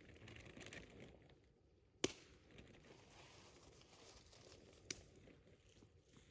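Campfire burning quietly with faint crackling, and two sharp pops, the first about two seconds in and the second, weaker, just before five seconds.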